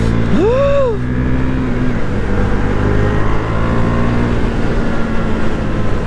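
Motorcycle engine running steadily under the rider, with road and wind noise on the helmet-cam microphone. About half a second in, a short tone rises and then falls in pitch.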